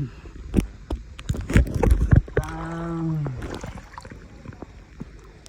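A burst of knocks and splashy, rumbling noise around water, then a person's drawn-out voice, held and then falling in pitch.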